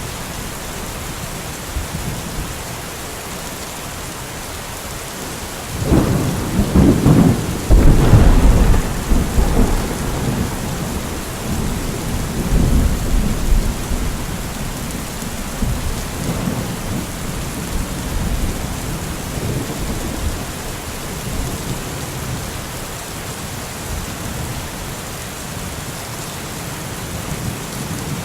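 Steady rain falling, with a thunderclap about six seconds in that cracks and rolls into a long low rumble fading away over the next several seconds.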